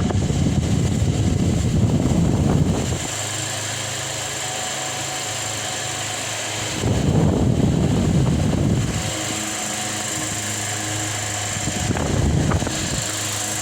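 Delta Gold 50 cm four-blade wall fan running, its motor giving a steady hum, with three spells of louder rushing air: for the first three seconds, again around the middle, and briefly near the end.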